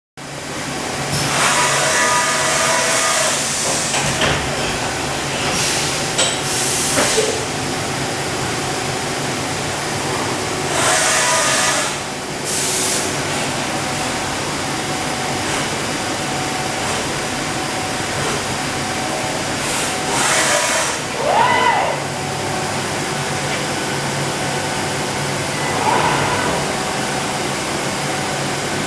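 Steady machine-shop hum from running machinery, broken several times by short bursts of hissing, with a brief wavering tone a little past the middle.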